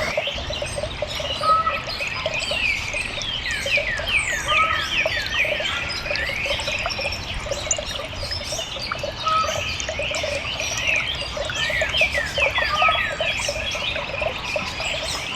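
Several songbirds chirping and calling, many quick down-slurred notes overlapping throughout, with lower short notes repeating beneath them.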